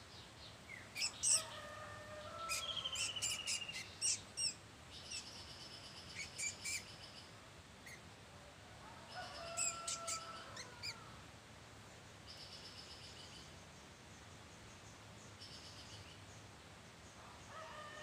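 Birds chirping and calling: clusters of short high chirps and a trill early on and again about nine to eleven seconds in, with thin high notes held for about a second in the gaps.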